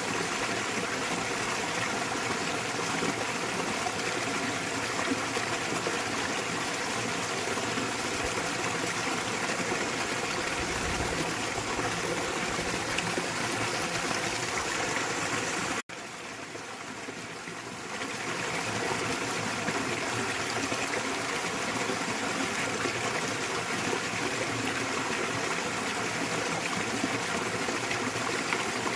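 Small waterfall splashing steadily into a valley stream. About halfway through the sound cuts out for an instant and comes back quieter for about two seconds before returning to its full level.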